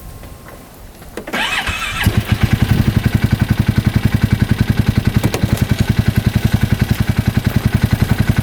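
The freshly rebuilt single-cylinder engine of a 2015 Polaris Ranger 570 UTV is cranked by its electric starter a little over a second in. It catches within about half a second and settles into a steady idle with an even beat of roughly nine pulses a second.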